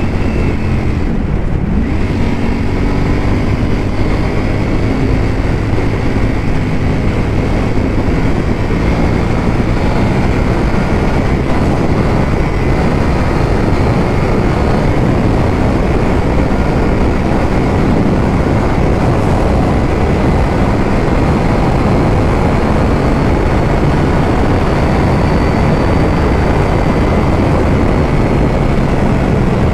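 Ducati V4 motorcycle engine running steadily while riding, under a heavy rush of wind noise on the microphone. The engine's note stands out in the first several seconds and again near the end, with the wind rush covering it in between.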